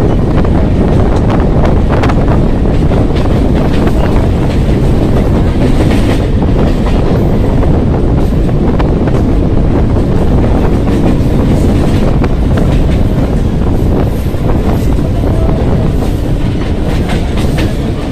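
Electric suburban local train running at speed, heard from its open doorway: a loud steady rumble with wheels clattering over rail joints.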